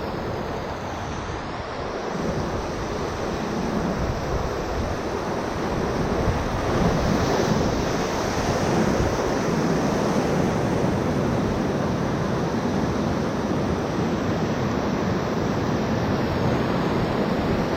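Whitewater rapids at high water rushing around the raft, a dense steady roar of water with wind buffeting the microphone, growing louder about six seconds in.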